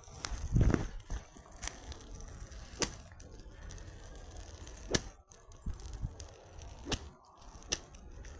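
Campfire crackling, with sharp pops and cracks at irregular intervals from the burning wood, and one dull thump about half a second in.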